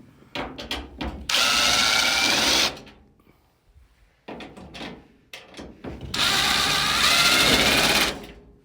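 Power drill driving out screws: it runs twice, each time for about one and a half to two seconds, with small clicks and knocks of handling before and between the runs.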